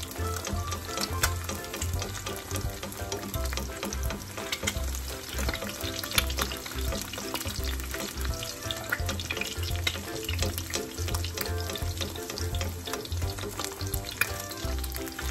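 Egg frying in hot oil in a pan: a steady sizzle with frequent sharp crackling pops.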